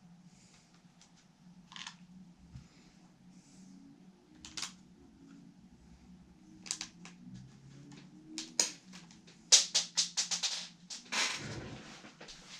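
Scattered clicks and taps of small tools and hardware being handled during electric guitar assembly, growing into a quick, louder cluster of clicks about nine to eleven seconds in.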